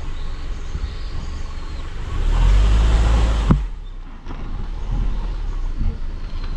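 Car driving on a road, heard from inside the cabin: a steady rumble of tyres and engine. About two seconds in, a louder rush of road noise begins and cuts off abruptly about a second and a half later with a click.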